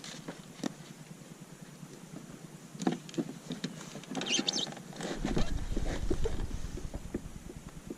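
Water slapping and splashing against a kayak hull with scattered knocks and clicks, a brief splash about four seconds in, then wind buffeting the microphone for a couple of seconds.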